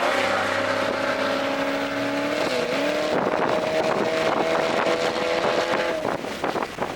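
Toyota GR Corolla's turbocharged 1.6-litre three-cylinder engine, fitted with an aftermarket intake, running at speed with a steady note. About two and a half seconds in the pitch dips briefly, then climbs slowly. Near the end the engine note drops away, leaving wind and road noise.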